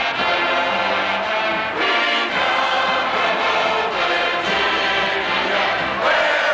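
A large stadium crowd of football fans singing together, loud and continuous.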